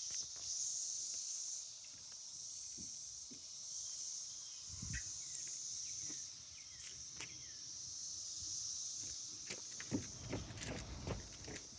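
A chorus of insects buzzing at a high pitch, swelling and easing every few seconds. Footsteps on the trail come through as thumps, thickening in the last two seconds or so.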